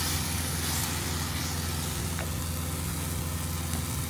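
Semi-truck's diesel engine idling: a steady low hum.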